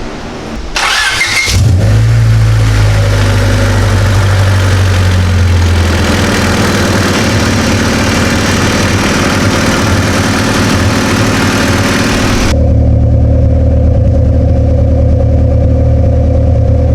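Honda Civic EK's four-cylinder engine cranked and catching about a second in, then running steadily, run to heat-cycle freshly applied exhaust sealer on a cracked exhaust near the head. About three-quarters of the way through, the hiss above the engine note cuts off suddenly, leaving a steady low engine drone.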